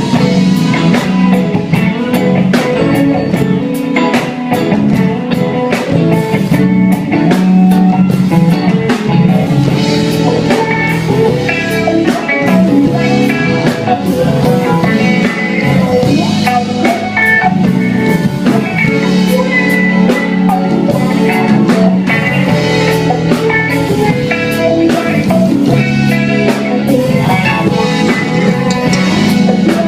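Live soul band playing, with guitar and a drum kit keeping a steady beat.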